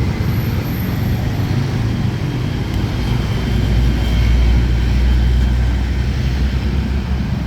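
Road vehicle noise: a steady low engine and traffic rumble that grows a little louder around the middle.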